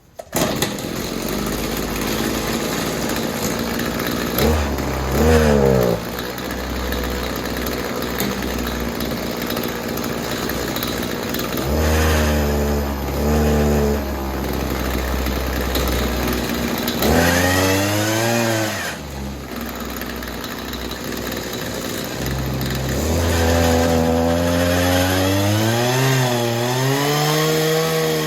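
Shindaiwa hedge trimmer's small two-stroke engine starting up and running, revved up and back down several times. It runs after a new fuel line and primer bulb, well enough that the carburettor need not come off.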